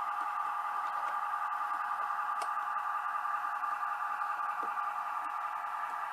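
A steady electric whine with several pitches at once, wavering slightly, from the small motors that drive the animated figures on a model railway layout.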